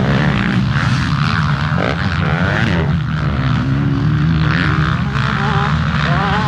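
Several motocross bike engines running at once: a steady low drone with other engines rising and falling in pitch as the throttles are worked.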